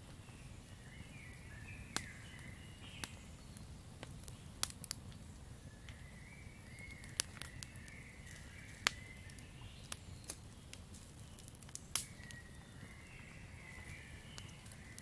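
Campfire crackling: sharp pops at irregular intervals, the strongest about nine and twelve seconds in, over a steady low rumble of the burning fire. Faint chirping from the night forest comes and goes behind it.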